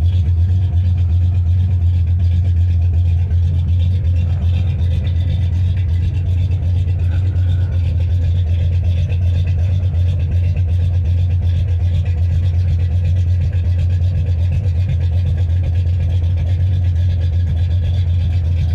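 Old-body-style (OBS) pickup truck engine idling steadily with a low hum, warming up just after a cold start in sub-zero cold.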